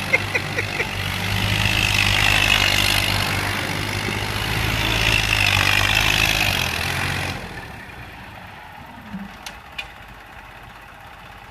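Tractor engine running hard, its note slowly rising and falling, then dropping off sharply about seven seconds in to a much quieter background with a couple of faint clicks.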